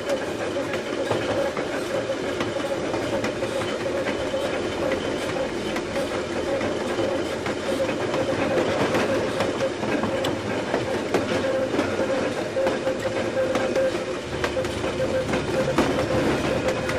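Toy electric train's motor whirring with a steady hum, with light clicking from its wheels running over the plastic track.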